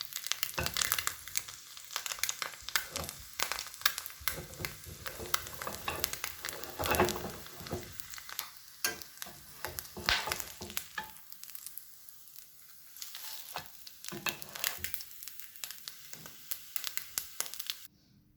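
Food frying in a pan, sizzling with many sharp crackles, with a utensil stirring it; cuts off suddenly near the end.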